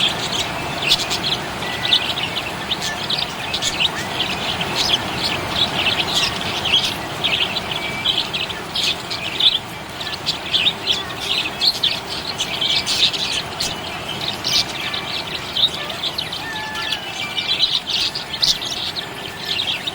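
Budgies chirping: a dense, unbroken run of short high chirps, over a steady background hiss.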